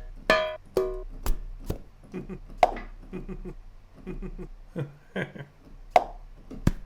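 Sampler playback of a rhythmic pattern of short percussive hits made from recorded household-object sounds: sharp clicks and knocks, some with brief pitched rings, one of them coming in a little late.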